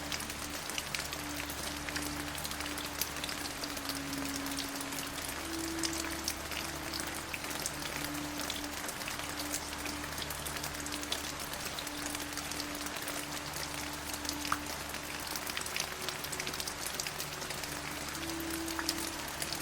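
Steady rain: a dense, even hiss of falling drops with scattered sharper drop ticks. Under it run soft, held low musical notes that shift slowly from one to the next.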